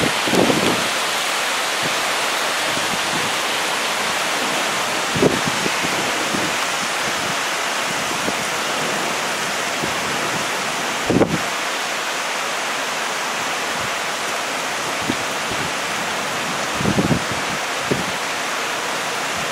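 Heavy rain falling in a steady hiss during a thunderstorm, with a few brief gusts of wind buffeting the microphone.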